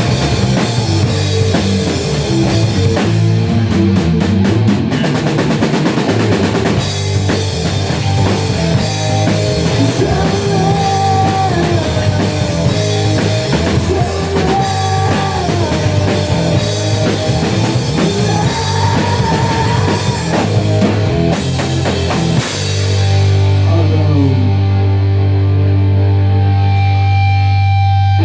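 Rock band playing: drum kit, bass and guitar, with a melody line weaving over the middle. Near the end the drums drop out, leaving a long held bass note and sustained chords.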